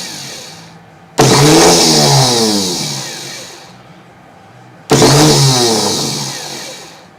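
Repaired Tecumseh electric starter motor run briefly several times: each time it spins up at once with a high whine and then coasts down, with no grinding or squealing. It runs smooth after fresh high-temperature grease.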